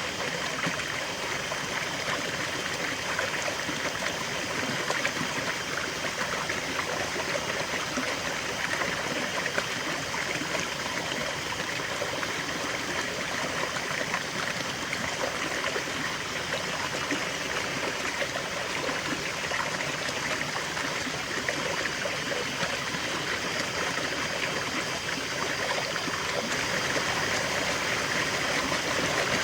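River water flowing over stones, a steady rushing and babbling with fine trickling detail.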